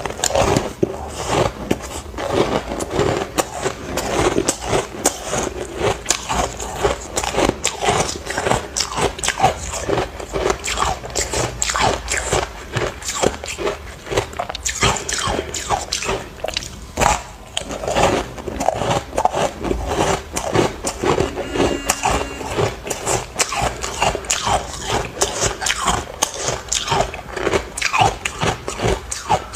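Close-up biting and crunching of ice chunks coated in matcha powder, a rapid run of sharp cracks and crunches that keeps going with only brief pauses.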